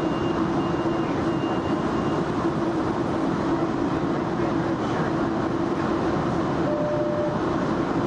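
Inside a moving Metrolink commuter train: the steady rumble and rush of the ride, with a constant low hum and a brief higher whine near the end.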